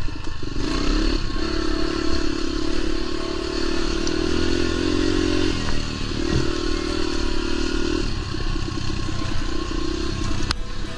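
Dirt bike engine running on a trail ride, held at a steady pitch for several seconds at a time and easing off briefly between. There is one sharp knock near the end.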